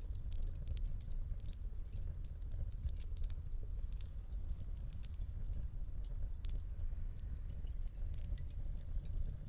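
Wood fire in a fireplace crackling, with many small irregular pops and snaps over a low, steady rumble of the flames.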